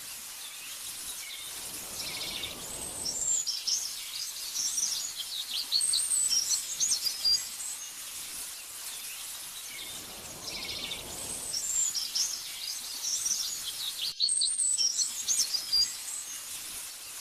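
Small songbirds chirping and twittering in quick, high-pitched phrases, with two soft swells of rushing noise partway through and a brief dropout near the end.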